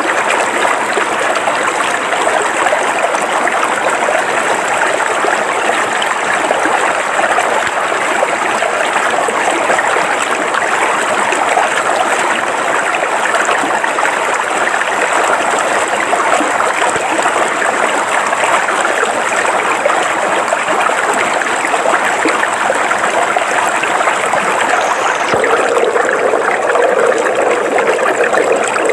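River water flowing over rocks, a steady continuous rush. Near the end the flow deepens, with a stronger low gurgle.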